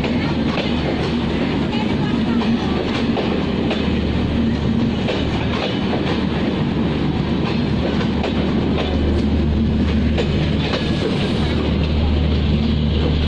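Passenger coaches of a train rolling in along a station platform, their wheels clacking over the rail joints. A steady low hum runs underneath and grows stronger in the second half.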